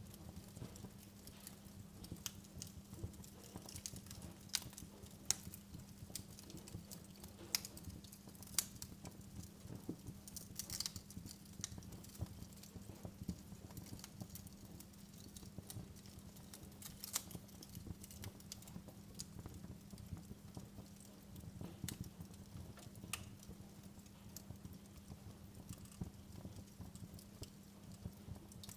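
Wood fire crackling in a fireplace: irregular sharp pops and snaps, a few a second, over a low rumble and a faint steady hum.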